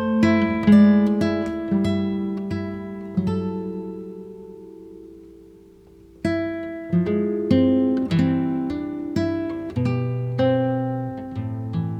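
Background music on solo acoustic guitar: plucked notes and chords that ring out and decay. The phrase dies away around the middle and a new one starts about six seconds in.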